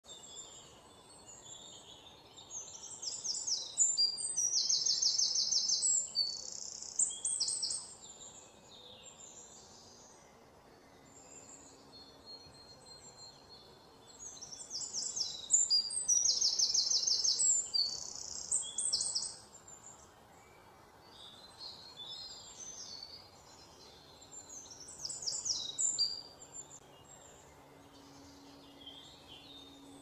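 Birds chirping and trilling in three bouts of quick, high-pitched repeated notes, with quieter gaps between them.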